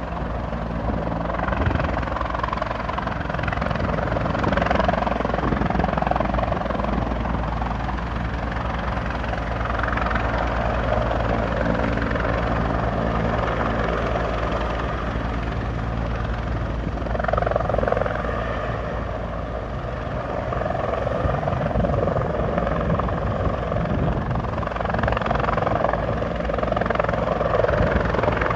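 Rescue helicopter's rotor and engine running continuously, a steady beating drone that swells and eases slightly a few times.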